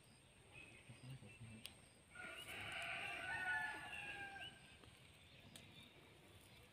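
Faint outdoor ambience with a few short bird chirps, then a louder drawn-out call lasting a couple of seconds, starting about two seconds in.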